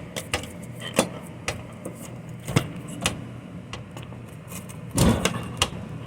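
Metal hand tools clinking and knocking against a dishwasher's metal parts over a steady low hum, with a louder scraping rattle about five seconds in.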